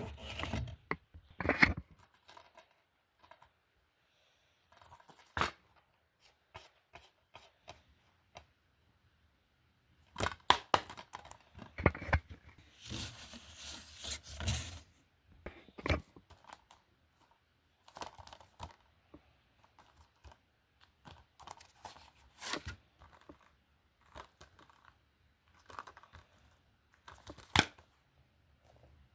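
Plastic DVD and Blu-ray cases being handled: scattered clicks and clacks with short bursts of rustling, busiest near the middle.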